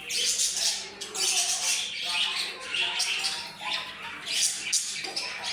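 Budgerigars chattering: a near-continuous stream of scratchy chirps and short warbled notes, with brief pauses.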